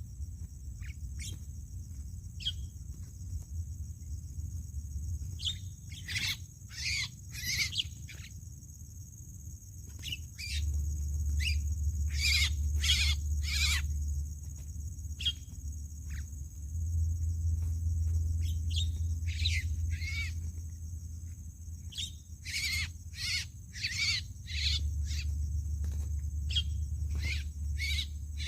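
Jalak (starlings) calling: short, quick calls in clusters of several at a time, coming in bouts with gaps between them.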